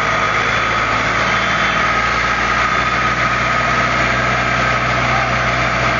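Vehicle engine running steadily at a constant speed, with no revving.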